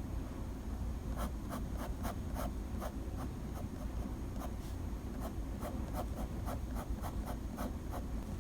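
Quick sketching strokes: a drawing tool scratches across the drawing surface in short repeated strokes, about three or four a second, with a brief pause midway. A steady low hum runs underneath.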